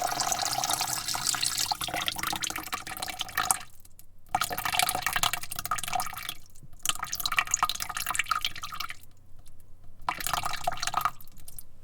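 Water spraying into a bucket in bursts, cutting off briefly about four seconds in, again after six seconds and for about a second near nine seconds, with spatter and drips as the jet hits the water.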